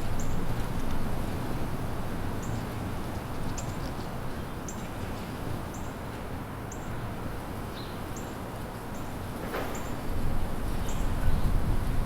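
Small songbirds giving short, high chirps about once a second over a low, steady background rumble that grows louder near the end.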